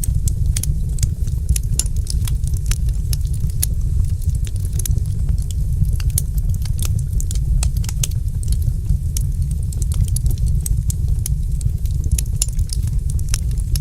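Wood fire burning in a fireplace, crackling with many irregular sharp snaps and pops over a steady low rumble of the flames.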